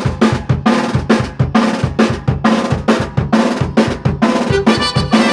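A band playing a song's opening with the drum kit to the fore, bass drum and snare beating a quick, even rhythm under sustained instrument notes.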